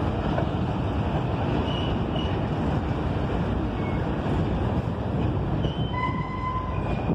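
Freight train of covered hopper cars rolling past close by: a steady rumble of steel wheels running over the rails.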